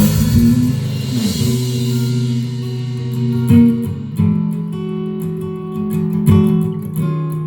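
Live band's closing outro: a cymbal wash fades out over the first two seconds while guitar chords ring on, struck again a few times.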